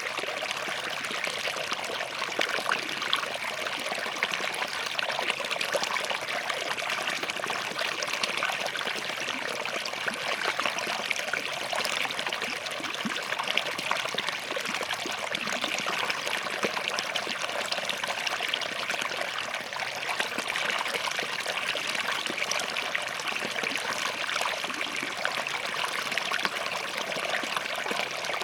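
Small forest stream flowing and trickling over rocks, a steady splashing babble with no pauses.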